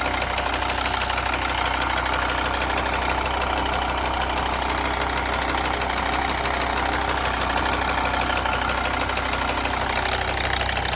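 Mercedes ML 270's OM612 2.7-litre five-cylinder diesel idling steadily with a fast, even ticking, and behind the ticking a banging that the owner does not take for normal.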